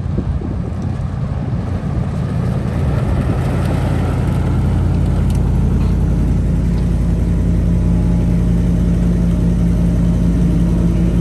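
Rivian R1T electric pickup pulling a weight sled: a low rumble that builds over the first few seconds and then holds steady.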